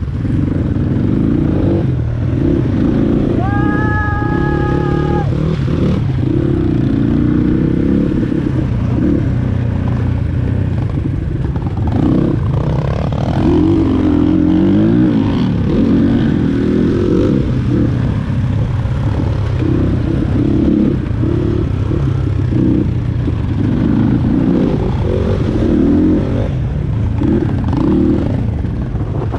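Dirt bike engine running under load, its revs rising and falling over and over. About three seconds in, a steady high tone sounds for about two seconds.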